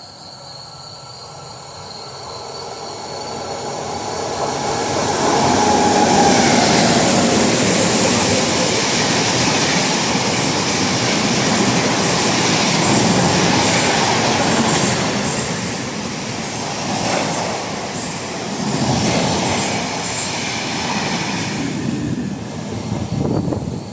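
Trains passing close by at speed. The rumble and clatter of wheels on rail build over the first six seconds, stay loud with a few surges, and ease off near the end.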